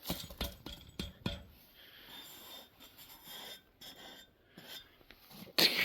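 Boots crunching and scraping in snow, with several sharp knocks in the first second and a half and a louder scrape near the end.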